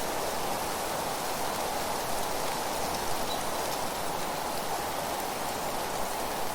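Steady wind with rustling leaves, an even, unbroken hiss.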